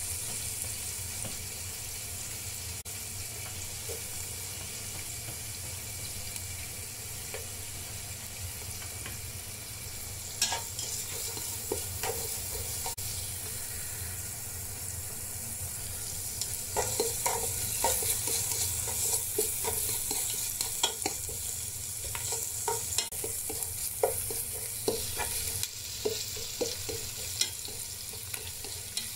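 Diced onion and garlic sizzling steadily in melted butter in a nonstick pan, with a spatula scraping and clicking against the pan as they are stirred. The stirring strokes come quick and frequent in the second half.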